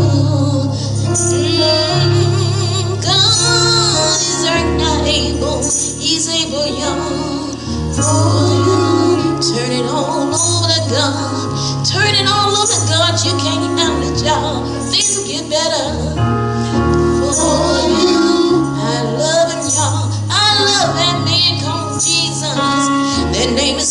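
Gospel music in church: voices singing over a band, with a bass line that moves to a new note every second or two.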